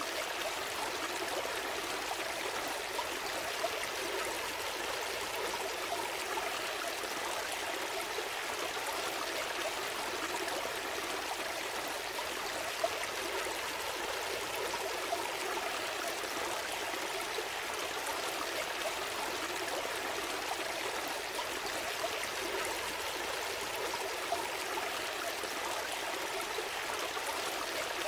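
A gentle stream flowing steadily: a continuous babble of running water, with a few brief, slightly louder blips.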